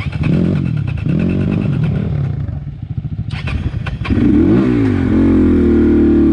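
Dirt bike engine revving up and down in short blips, then held at a louder, steady higher rev from about four seconds in.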